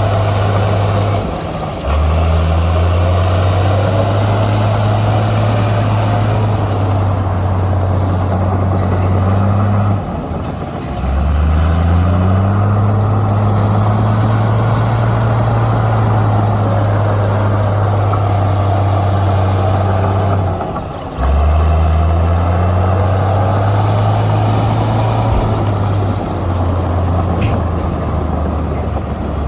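Komatsu bulldozer's diesel engine working under load, a steady low engine note. It dips briefly three times, about every ten seconds, and picks back up each time with its pitch shifting.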